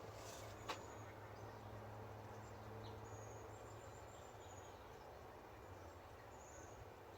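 Faint outdoor ambience: a low steady background with scattered brief, high chirps from birds or insects. A single sharp click comes about a second in.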